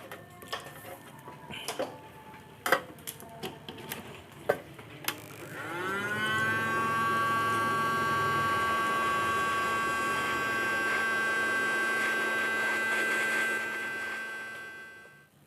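A few clicks and knocks of handling, then an electric blower's motor spins up about six seconds in, its whine rising in pitch and settling into a steady tone. It runs for several seconds, then winds down near the end, blowing dry the thinner on a freshly washed circuit board.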